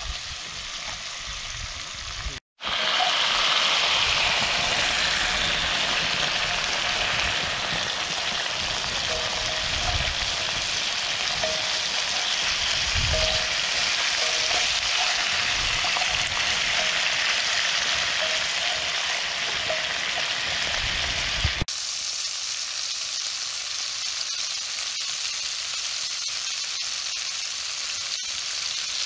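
Crayfish frying in hot oil in a cast-iron pot, a steady loud sizzle as they are stirred with a stick. The sizzle cuts out for a moment about two seconds in, and its lower part drops away abruptly near the end.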